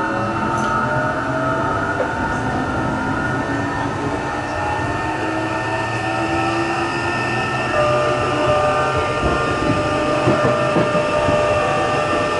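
Interior running sound of a Tokyo Metro 03 series subway car with shunt chopper control: the chopper and traction motor whine, its tones gliding slowly upward, over wheel and rail noise. From about two-thirds of the way through the running grows slightly louder, with clicks of wheels over rail joints. This car's motor is known to make a slight abnormal noise.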